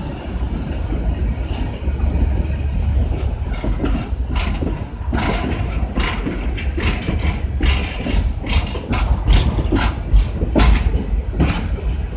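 Coal hopper cars of a slow-moving freight train rolling past, a steady low rumble with irregular sharp metallic clicks and clanks from the wheels on the rails, which come thicker from about five seconds in.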